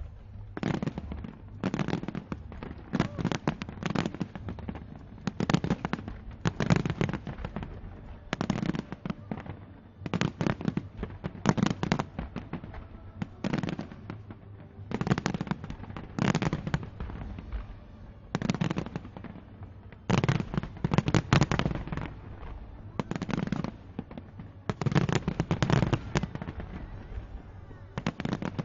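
Fireworks exploding in a long, near-constant barrage: clusters of sharp bangs every second or two over a steady low rumble.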